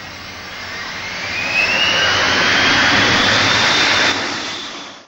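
Airliner jet engines spooling up to high thrust: a rising whine climbs in pitch over a loud rush, holds, then eases off a little near the end.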